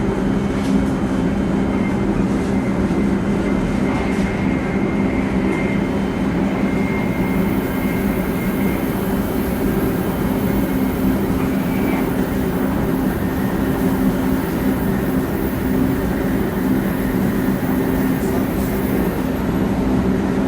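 700 series Shinkansen running at speed: a steady, loud rumble of wheels on rail and running gear with a few steady low tones underneath. A faint high whine comes in about a third of the way through and fades out near the end.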